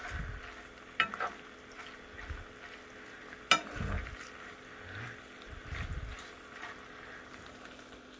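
Shredded chicken sizzling in oil in a skillet while it is stirred with a metal spoon, which clinks sharply against the pan twice. A few dull bumps come in among the stirring.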